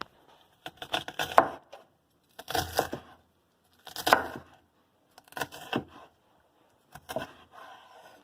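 Knife chopping vegetables on a cutting board, in five short bursts of knocks about one and a half seconds apart.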